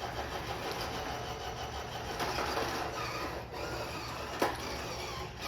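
Small electric motors of toy RC cars whirring, their pitch rising and falling as they are driven, with a single sharp knock about four seconds in.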